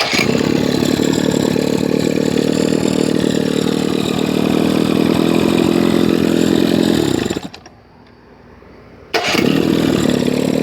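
Freshly rebuilt 15 hp Johnson two-stroke outboard motor, fitted with an electric-choke carburetor, starting at once and running steadily; it stops about seven seconds in and starts straight up again a couple of seconds later.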